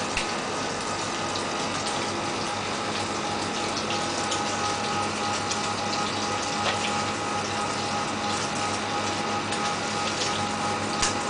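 Crab cakes frying in hot oil in a pan: a steady sizzle with scattered small pops, over a steady hum.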